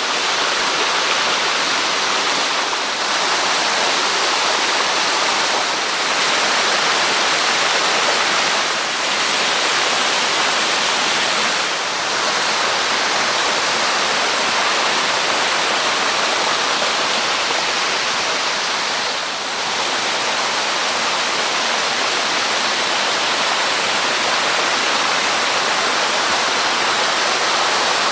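Steady rushing of water falling down a small waterfall of about six metres.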